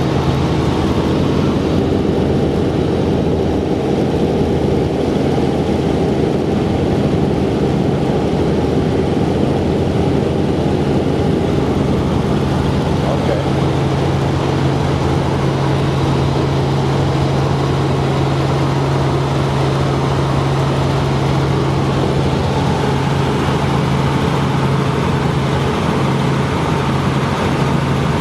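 Helicopter engine and rotor running steadily, a loud constant drone with a steady low hum.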